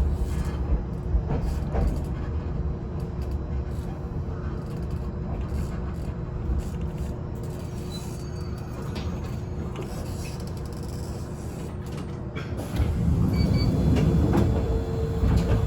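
Yoro Railway electric train standing at a station with its doors open, its onboard equipment giving a steady hum with a faint whine. About thirteen seconds in, a louder low rumble comes in.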